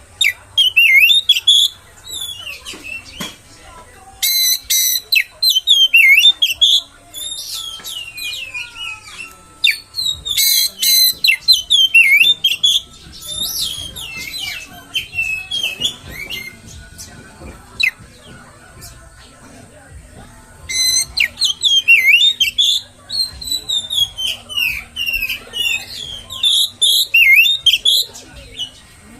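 Oriental magpie-robin (kacer) singing loudly in bouts of fast, varied whistled phrases with short pauses between them. Several bouts open with a quick rattling burst of notes. A steady high hiss runs underneath.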